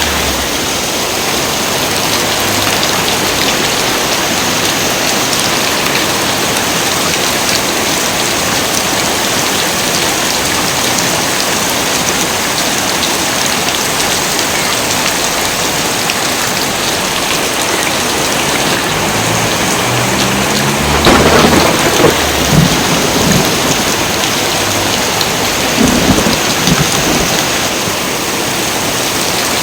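Heavy rain pouring steadily, with thunder crackling and rumbling about two-thirds of the way in and a second, shorter rumble soon after.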